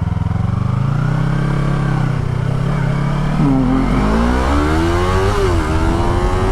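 Sport motorcycle engine accelerating hard: after a steady stretch its pitch climbs from about halfway through, drops briefly at an upshift and climbs again, with wind rush behind it.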